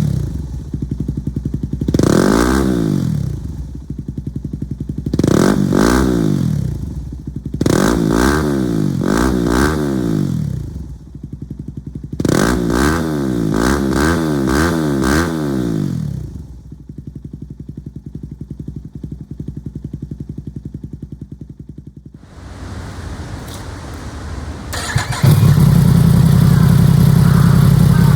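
Motorcycle engine with an aftermarket exhaust being free-revved in repeated short blips, each rising and falling, some in quick runs. It settles to a steady idle about 17 s in, and near the end a louder, deeper steady engine sound takes over.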